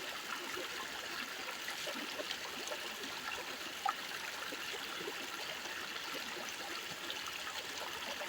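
Water trickling and flowing steadily, as in a small stream, with one short sharp click about four seconds in.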